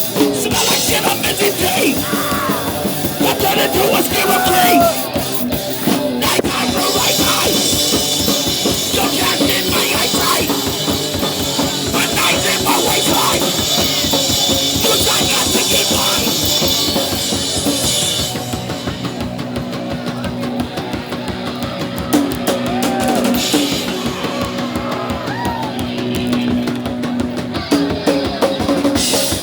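Hardcore punk band playing live, heard loud from inside the mosh pit: fast drums with crashing cymbals, distorted guitars and bass, and shouted vocals. The cymbal wash drops away for a few seconds past the middle, then comes back.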